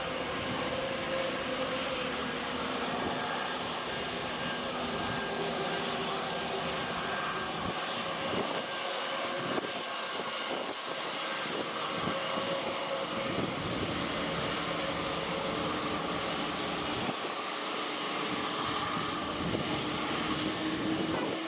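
Heavy jet airliner's engines at takeoff power: a steady rush of engine noise with faint whining tones. Near the end a tone begins to rise.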